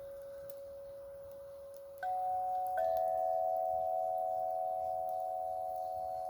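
Divya Svara sound instrument ringing: one pure metal tone fading slowly, then two slightly higher tones struck about two and three seconds in, ringing on together in a soft chord.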